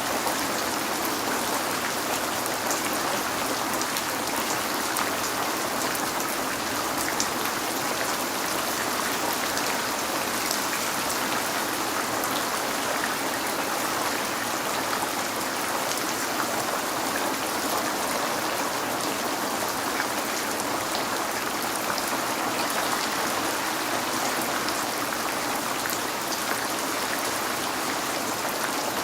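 Steady rain falling, an even hiss with many small drop ticks, heard as rain on a window.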